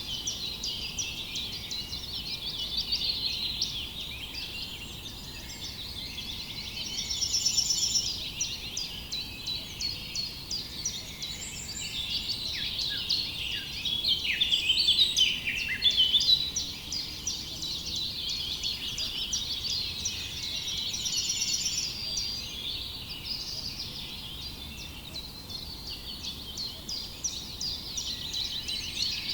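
Many small songbirds chirping and twittering at once, a dense overlapping chorus of short high calls and trills throughout, with a couple of brief buzzy trills standing out.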